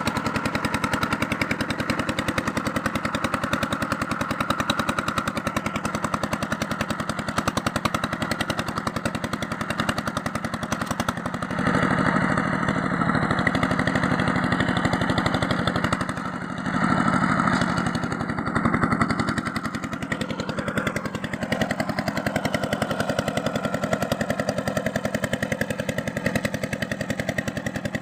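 A small motor-driven tool running with a fast, even rattle. It gets louder and heavier twice in the middle, as if bearing down under load.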